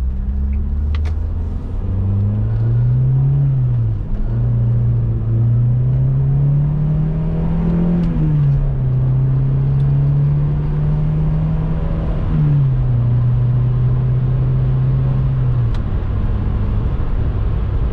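Inside the cabin of a 1995 Volvo 480 Turbo, its 1.7-litre turbocharged four-cylinder engine pulls up through the gears. The engine note rises and drops back at each upshift, about three times. It holds steady at cruise and eases off near the end, over constant road rumble.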